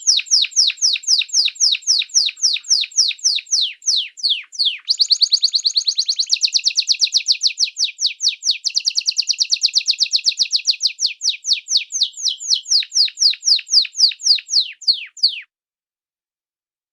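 A small songbird singing a long run of quick, downslurred chirps that speeds up into a faster trill about five seconds in, then slows again and cuts off suddenly near the end.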